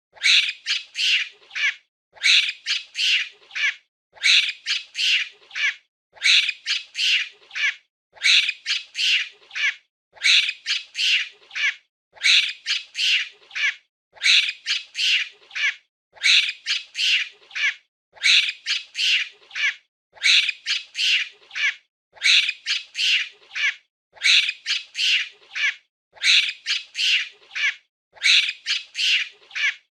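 Monkey chattering: a quick run of five or six harsh, high-pitched calls, repeating the same way about every two seconds as a short loop played over and over.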